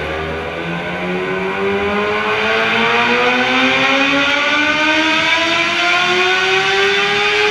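Motorcycle engine pulling up through its revs, its pitch rising slowly and steadily for several seconds before levelling off near the end.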